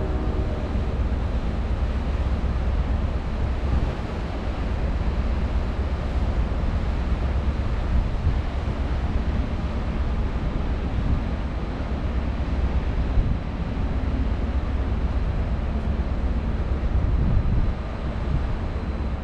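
Wind buffeting the microphone on an open ship deck, a steady deep rumble with a hiss of wind and sea. A held, pitched tone, like a ship's horn, dies away in the first second.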